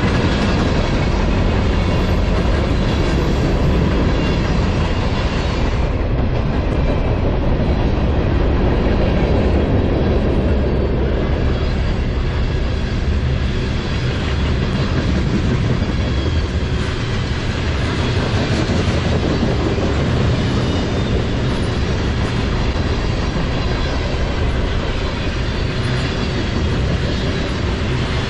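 Norfolk Southern mixed freight train's covered hoppers and tank cars rolling past close by: loud, steady noise of steel wheels running on the rails.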